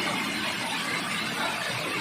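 Heavy rain and rushing runoff water: a steady, even hiss with no distinct events.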